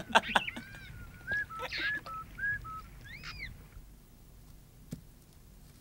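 Men laughing briefly at the start, then a bird calling a quick run of short rising-and-falling notes, about four a second, ending with one louder call a little past three seconds in.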